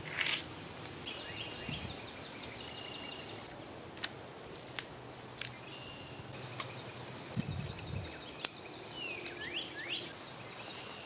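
Outdoor background hiss with short bird calls and a few rising chirps near the end, broken by scattered sharp clicks and snaps and a couple of low bumps.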